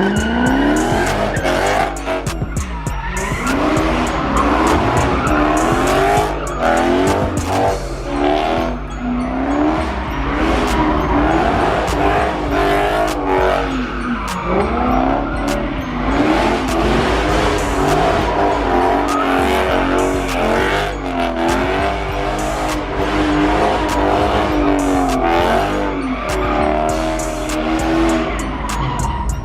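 Car tyres squealing in long, wavering screeches with the engine revving, as in a burnout or donuts, over music with a heavy bass line.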